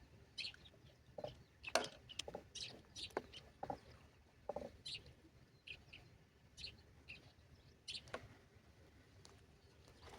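Birds chirping in short, scattered calls, with a few sharp clicks in between.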